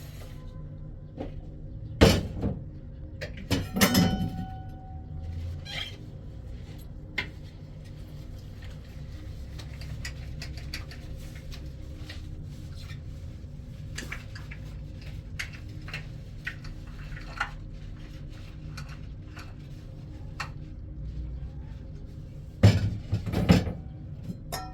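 Household clatter: a few sharp knocks and clinks about two and four seconds in and again twice near the end, with light scattered clicks in between, over a low steady hum.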